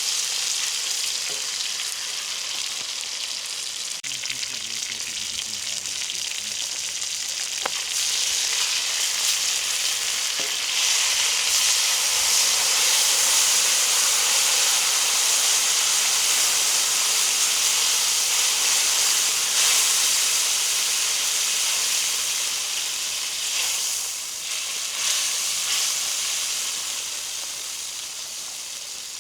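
Chicken frying on a saj, a steady sizzle that grows louder about eight and again eleven seconds in, then slowly fades toward the end.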